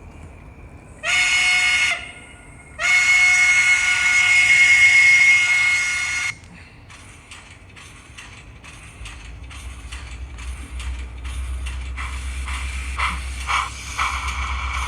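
Steam sound from a TCS WOW101 decoder played through the small speaker of a Hornby 0-4-0T Pug OO model locomotive: a short whistle blast, then a longer one, then exhaust chuffs at about two to three a second as the engine starts off, thickening into a steadier hiss near the end. A low rumble rises underneath from about halfway through.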